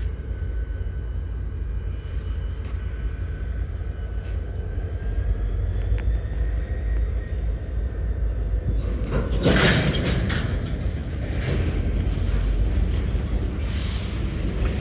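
Train rolling through a railyard with a steady low rumble and a faint high whine that rises slightly about halfway through. A loud, noisy burst lasting about a second comes near the two-thirds mark, followed by a few fainter ones.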